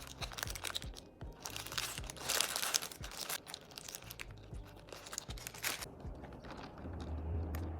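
Fast-food wrapping being handled, with irregular crinkling and rustling and a few crunches. A steady low hum comes in near the end.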